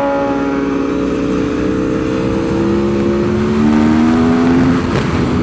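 Aprilia Tuono V4 motorcycle's V4 engine heard onboard, pulling steadily with its pitch slowly rising, then a short break and a drop in pitch near the end.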